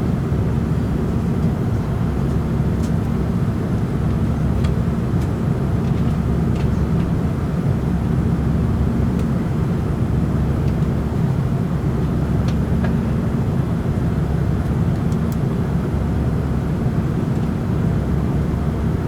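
Steady cabin roar of an Airbus A340-300 in flight, mostly low, with a constant hum and a few faint clicks.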